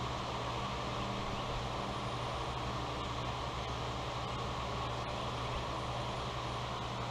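Steady low hum of a fan-driven machine running without change.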